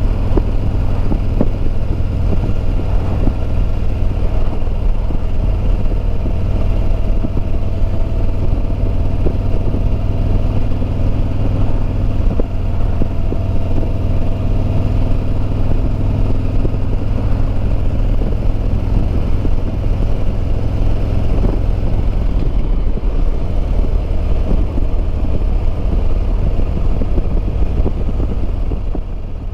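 Harley-Davidson Road Glide Limited's Milwaukee-Eight 114 V-twin running on the road, mixed with wind noise on the microphone; the engine note changes about three-quarters of the way through.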